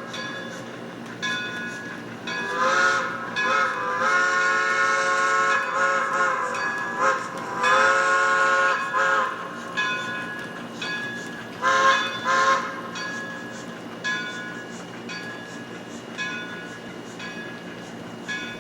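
HO scale model steam locomotive's sound system sounding its multi-chime steam whistle in several blasts, one long blast about four seconds in and two short ones near the end, over the steady chuffing of the locomotive's exhaust as it runs.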